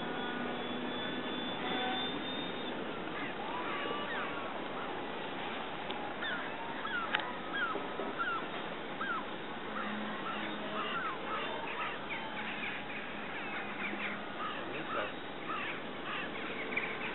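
Birds calling in many short chirps, thicker in the second half, over a steady rushing background.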